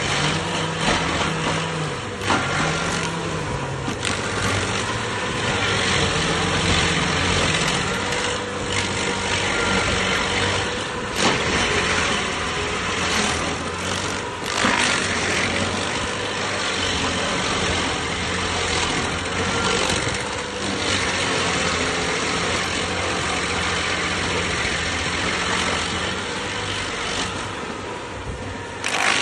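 Stump grinder's engine running steadily under a dense haze of grinding noise. The engine pitch sags briefly a few times in the first seven seconds.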